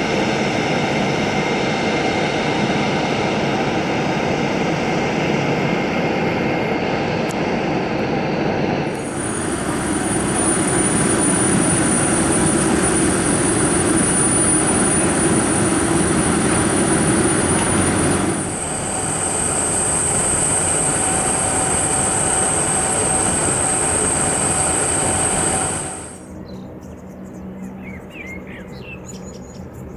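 Boeing 717's rear-mounted Rolls-Royce BR715 turbofans running loudly and steadily with a high whine, the sound shifting abruptly about nine and eighteen seconds in. About twenty-six seconds in the jet noise drops away suddenly, leaving a much quieter background with faint chirps.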